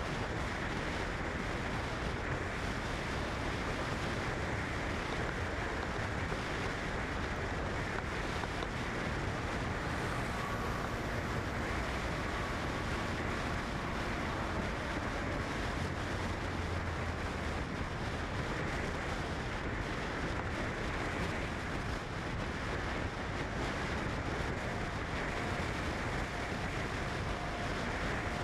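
Steady rushing noise that holds at one level without a break.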